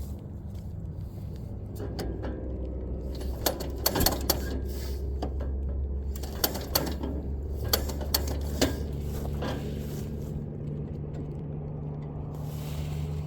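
Old Fordson engine, freshly freed after being seized, running with a steady low hum. A scattering of sharp clicks and knocks comes through the middle, and a second, higher steady tone joins about nine seconds in.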